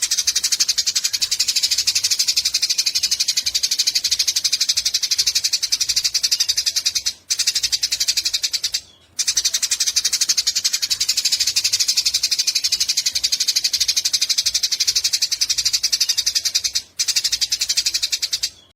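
Eurasian tree sparrow giving long, rapid chattering calls in unbroken bouts, with short breaks about seven seconds in, around nine seconds, and near the end.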